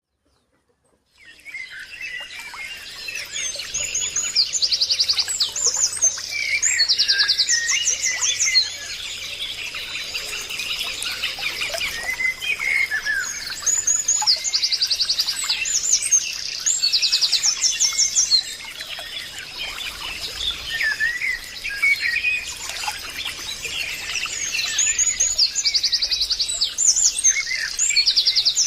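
Several birds chirping and calling, starting about a second in, with fast rapid-note trills that come back about every ten seconds over a steady high thin tone.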